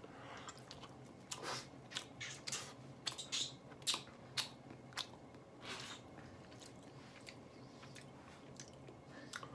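Wet hands pressing and shaping sticky cooked multigrain rice into a rice ball (onigiri), giving irregular soft sticky smacks and clicks, denser in the first half and thinning out later.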